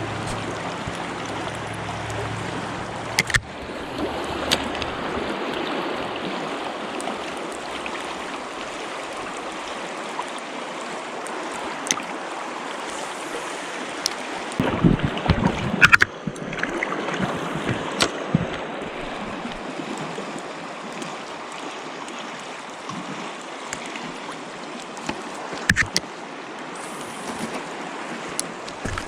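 River water rushing steadily, with a few sharp clicks and knocks from handling, one cluster about halfway through.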